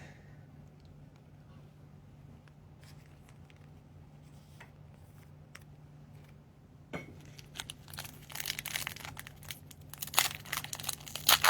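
A few faint clicks of cards being handled, then from about seven seconds in a trading-card pack's wrapper being torn open and crinkled, with a dense crackling rustle.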